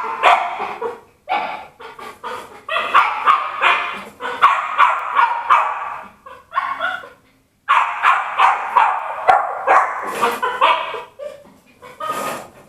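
Bichon Frise puppy yapping and whining in rapid, high-pitched bursts, with one short pause about seven seconds in: the distress of a puppy left alone in her cage.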